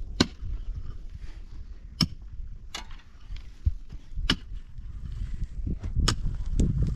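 A series of sharp knocks or chops, about five in seven seconds at uneven intervals, over a steady low rumble.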